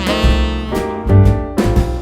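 Jazz music with a saxophone playing held melody notes over a drum kit keeping a steady beat.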